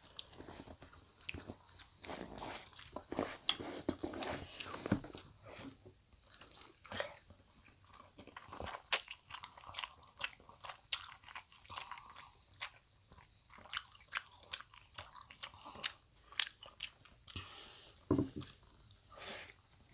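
Close-miked chewing and biting of soft Korean fish cakes (eomuk) from fish cake soup, with many short, sharp mouth clicks.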